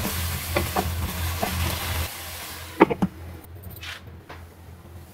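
Diced chicken sizzling in oil in a non-stick wok while a wooden spatula scrapes and stirs it. A little under three seconds in, a glass lid clinks onto the pan and the sizzle turns muffled and much quieter.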